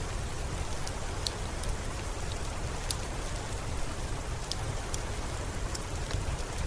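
Steady rain falling, an even hiss with a deep low rumble underneath, dotted with scattered short, sharp ticks and pops.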